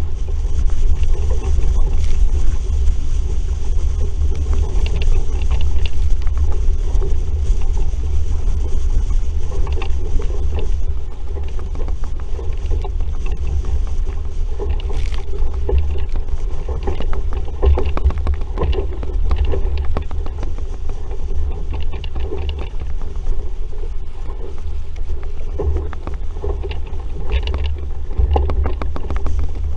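RS Vareo sailing dinghy under way in a breeze: a steady heavy rumble of wind on the microphone, with water rushing and splashing irregularly against the hull.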